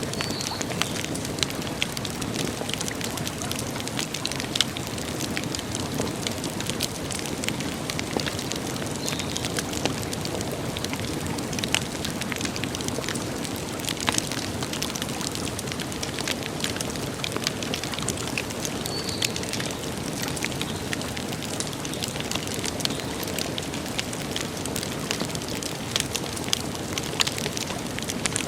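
Wood campfire crackling: dense, irregular sharp pops and snaps over a steady rushing hiss. Three faint high chirps come through at intervals.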